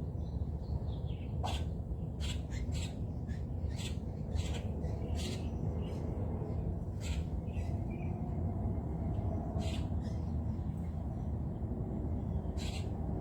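Wild birds at a feeder calling: a dozen or so short, sharp calls at irregular intervals over a steady low rumble.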